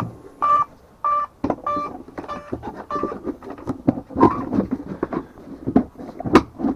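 Electric RC rally car on 6S brushless power being driven in short throttle blips: a run of brief motor whines at a steady pitch, about two a second. They are followed by irregular knocks and clatter from the car.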